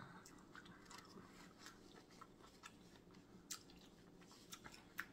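Near silence with faint, scattered wet mouth clicks from closed-mouth chewing of a mouthful of corn on the cob.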